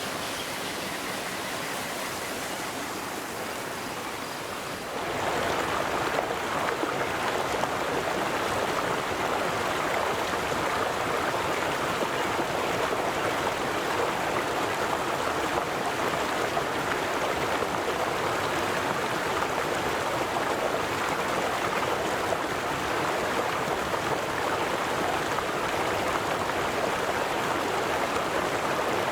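River water flowing in a steady rush, with no voices. About five seconds in it gets abruptly louder and fuller, then holds steady.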